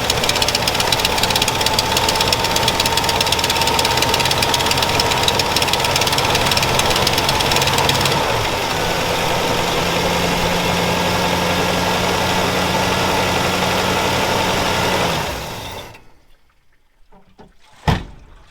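1963 Cadillac Coupe Deville's V8 idling steadily when warm, then switched off about fifteen seconds in and dying away within a second. A single sharp knock comes near the end.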